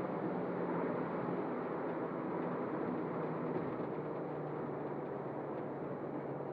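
Turbocharged Toyota Corolla Altis heard from inside the cabin, engine humming under steady road and tyre noise. The engine note drops slowly over the first few seconds, as when the car eases off and slows.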